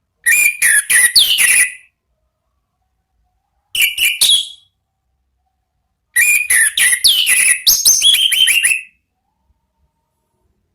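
Orange-headed thrush singing in three loud phrases, the last the longest, made of quick repeated whistled notes with falling slurs and sharp high squeaks.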